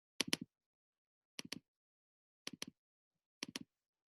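Computer mouse clicks, four quick double clicks about a second apart, pointing to the words of a list one by one.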